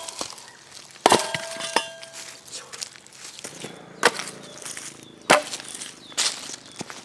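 Firewood being chopped at a campsite: five sharp, irregular knocks and cracks about a second apart, the one about a second in followed by a short ringing note.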